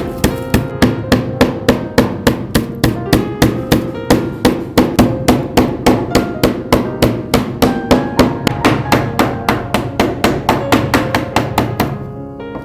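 Rapid, even knocks, about three or four a second, that stop near the end, over background music.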